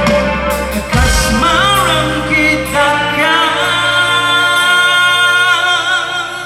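Live rock band playing with singing. The drums and bass stop about three seconds in, leaving a long held note with vibrato over a sustained chord that fades near the end, as the song closes.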